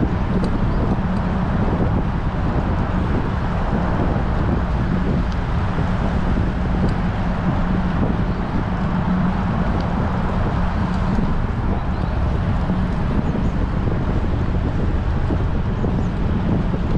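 Strong wind buffeting the microphone of a bike-mounted GoPro while riding, a steady rumbling noise with a constant low hum underneath.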